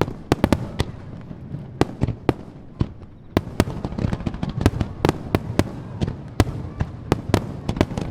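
Fireworks going off in a rapid barrage of sharp bangs over a continuous low rumble, with the bangs coming thicker from about halfway through.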